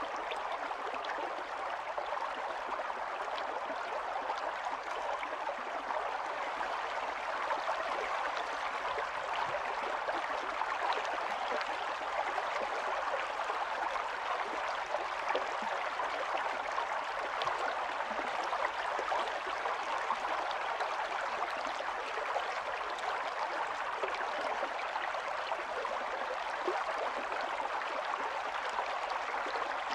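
Stream water running steadily over stones, a constant burble with small splashes flickering through it.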